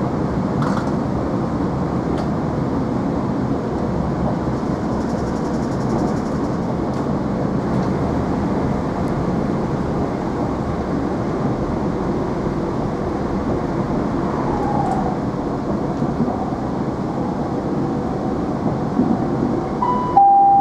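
Steady interior rumble of a moving Chiltern Railways Class 165 diesel multiple unit, wheels running on the rails. Near the end, a two-note falling chime from the train's on-board announcement system.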